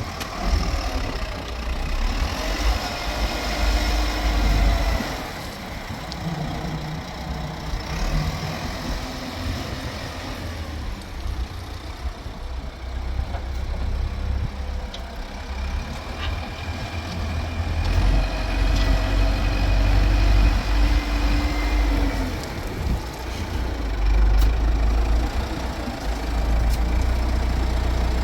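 A vehicle engine running with a deep, steady rumble that grows louder about two-thirds of the way through.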